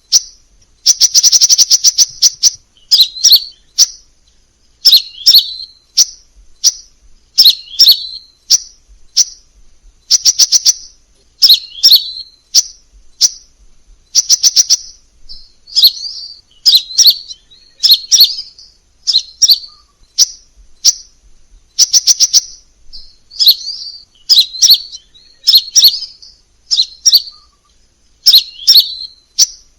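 Crimson sunbird song: short high-pitched chirping phrases about once a second, several of them fast rattling trills, repeated with brief gaps between.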